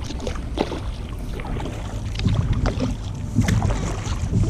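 Wind buffeting the microphone over open water as a gusty low rumble, with scattered sharp clicks.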